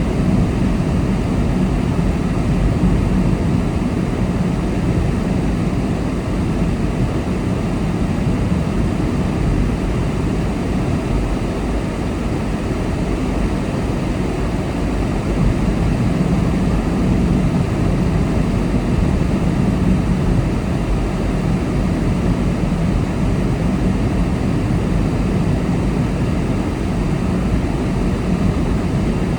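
Steady road noise of a car being driven at speed: tyre roar and engine drone that holds level with no sudden events.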